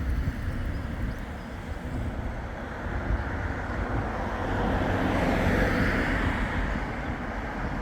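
A vehicle passing close by, growing louder to a peak about five to six seconds in and then fading, over a steady wind rumble on the microphone.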